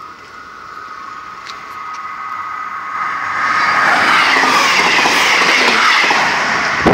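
Class 159 diesel multiple unit approaching and passing close by. Engine and wheel noise grows steadily louder and is at its loudest from about four seconds in, with sharp clattering knocks right at the end.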